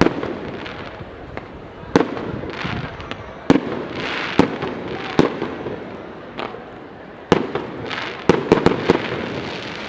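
Fireworks shells bursting: sharp bangs every second or two, with crackling and hissing between them, and a quick run of several bangs near the end.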